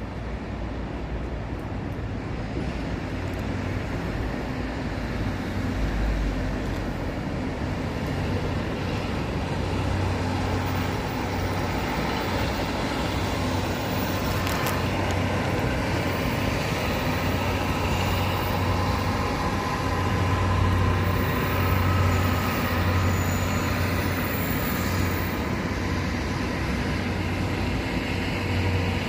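An EF65 electric locomotive hauling 14 series passenger coaches runs by with steady rolling and running noise. The sound grows louder over the first ten seconds or so and then holds, with a low hum underneath.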